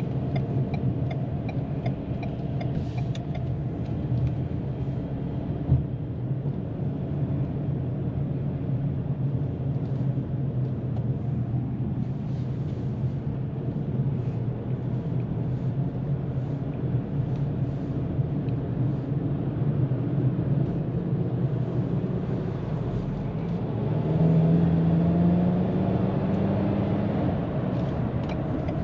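2022 Ford Maverick pickup cruising at highway speed: a steady drone of engine, tyre and wind noise. About 24 seconds in the engine note rises in pitch and gets louder for a few seconds as the truck speeds up. There is a single brief knock earlier on.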